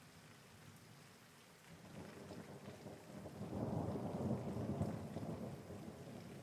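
Steady rain falling, with a roll of thunder that builds about two seconds in, peaks midway and slowly dies away.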